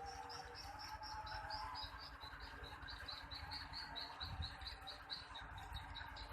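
Swiftlets chirping: a fast, even series of short high chirps, about five a second, running on with a slight drop in pitch over the first couple of seconds, over a low rumble.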